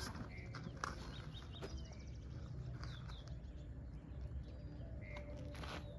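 Faint outdoor ambience: scattered short animal chirps, a few of them sliding down in pitch, over a steady low rumble, with a few light clicks.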